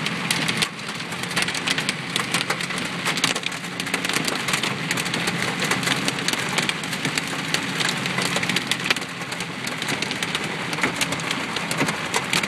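Mothball-sized hail hitting a car's roof and windshield, a dense continuous clatter of hard impacts heard from inside the car, over a low steady hum.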